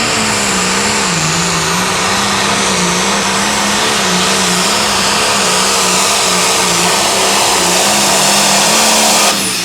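Turbocharged diesel pulling tractor running at full throttle under the load of the sled, its engine pitch wavering up and down as it works. The engine is suddenly backed off near the end as the pull finishes.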